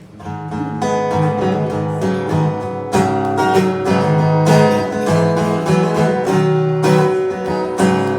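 Acoustic guitar strummed with a steady rhythm, playing the instrumental intro before the singing comes in.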